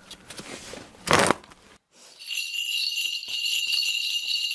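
A shaman's ritual bells (a bell cluster) being shaken, a dense continuous jingling from about two seconds in, after a short loud rush of noise about a second in.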